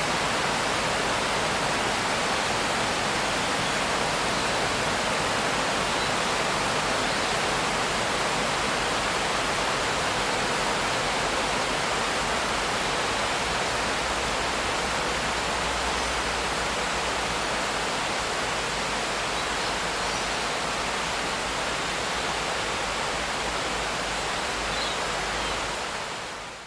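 Steady heavy rain, an even hiss with no separate drops or thunder, fading out near the end.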